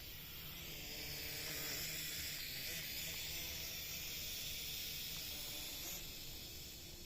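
Small JC801 quadcopter drone's propellers whirring with a hissing buzz, growing louder over the first couple of seconds, holding steady, then easing off near the end.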